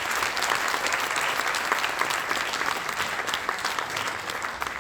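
Audience clapping after a performance, a dense patter of many hands that begins to thin out near the end.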